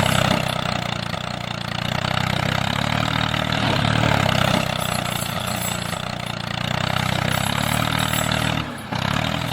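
An engine running steadily with a low, even hum, dipping briefly about nine seconds in.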